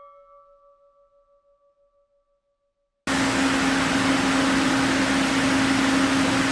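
A bell-like intro chime fades out, then after a silence a steady machine hum with a low drone and a hiss starts abruptly about three seconds in.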